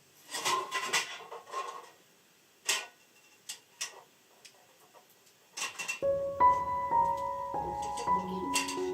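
Scattered clicks and clatters of kitchenware being handled: a busy cluster of clinks, then a few single ticks. About six seconds in, gentle piano music begins.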